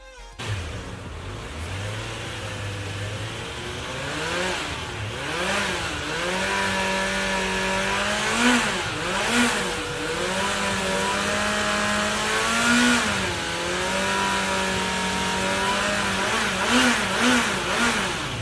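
Kawasaki Z900 inline-four engine breathing through a Two Brothers aftermarket exhaust, idling and then revved while standing. The pitch climbs and falls in long sweeps, held high for a few seconds at a time, with several quick blips near the end.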